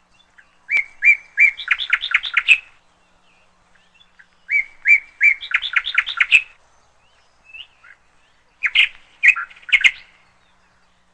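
Canary chirping in three short bursts of quick, repeated high notes.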